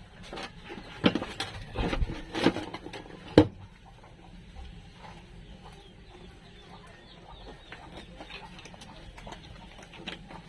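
Tack welding on a car's floor panel: several short, sharp crackling welds in the first three and a half seconds, the loudest about three and a half seconds in, then only a faint steady hiss.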